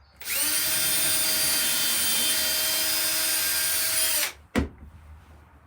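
Electric drill motor spinning up, running at a steady pitch for about four seconds, then winding down, followed by a single sharp click.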